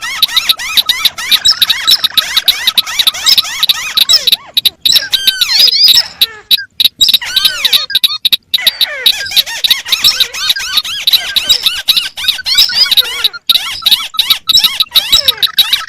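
Recorded calls of several crake species, including the white-browed crake, played over one another: a dense, unbroken stream of quick, high squeaky notes, with a few brief gaps in the middle.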